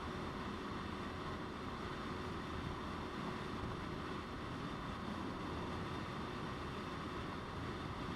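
Motorcycle riding along at a steady pace, heard from the rider's camera: a constant rush of wind and road noise over a steady engine hum, unchanging throughout.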